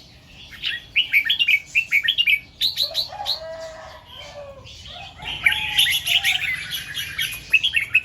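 Red-whiskered bulbul singing: bursts of quick, bright chirping notes, with a few lower, held notes mixed in around the middle.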